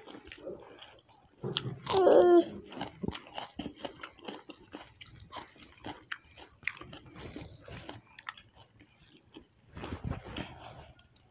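Chewing of Maggi instant noodles eaten by hand, with many small mouth and finger clicks. About two seconds in, a short high-pitched voice sound is the loudest moment.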